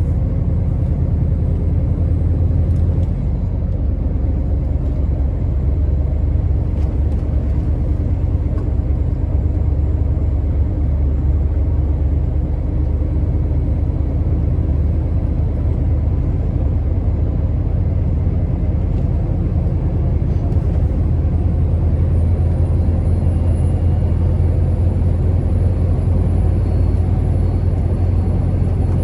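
Scania R650's 16-litre V8 diesel engine running steadily as the truck drives along, a deep even drone.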